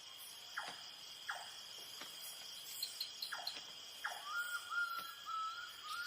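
Night rainforest ambience: crickets or other insects droning steadily on a high pitch, with a few short falling calls and a wavering call from another animal over them in the second half.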